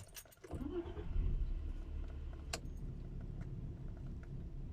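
Car engine idling steadily just after it finally started following long cranking, with a single sharp click about two and a half seconds in.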